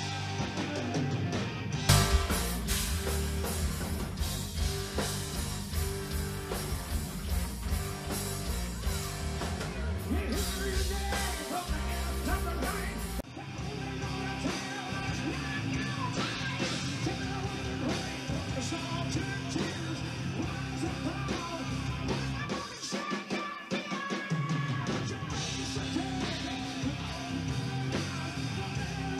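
Live rock band playing: electric guitar, drums and a singing voice. The full band comes in with a hit about two seconds in, and the sound changes abruptly about 13 seconds in.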